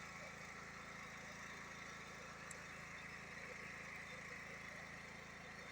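Faint, steady engine hum with no change.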